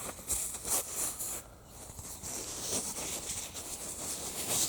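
Irregular rustling and crackling in vegetation, in uneven bursts.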